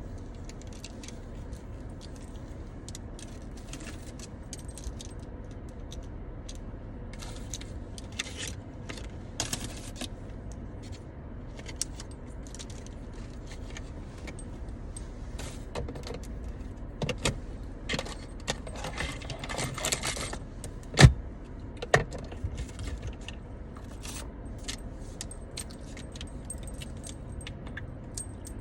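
Light clicks, clinks and rattles of small objects being handled, over a steady low rumble. Two louder knocks come about a second apart, roughly two-thirds of the way through.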